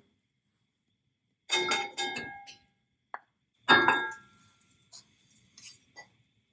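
Kitchenware clinking: two ringing clinks close together about a second and a half in, a louder ringing clink near the middle, then a few lighter taps.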